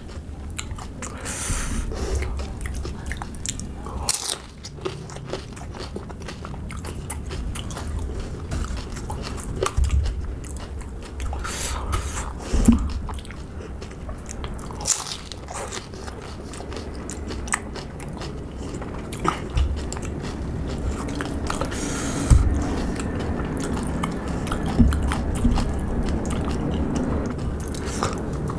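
Close-miked eating of pani puri, with a green chilli pushed into each: crisp fried puri shells filled with spicy sour water being bitten and chewed. Steady wet chewing runs throughout, broken by sharp crunches several times.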